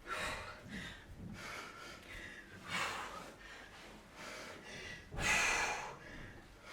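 A woman breathing hard under exertion during kettlebell cleans and presses: sharp, noisy breaths a second or two apart, the loudest about five seconds in.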